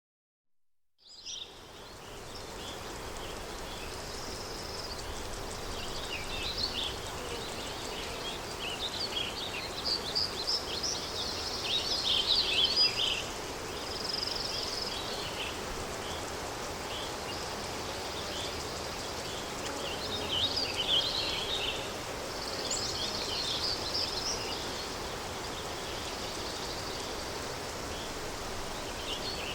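Rural countryside ambience: a steady wind, with small songbirds chirping and singing in several short spells over it. It fades in about a second in.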